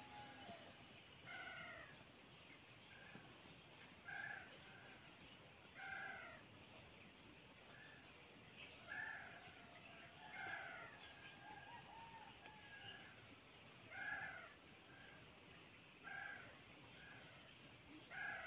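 Pitta calling at the nest: short, faint, mewing calls repeated every second or two. A steady high-pitched tone runs underneath.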